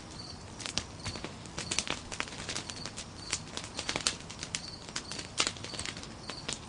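Nodya log campfire crackling, with irregular sharp snaps and pops from the burning wood.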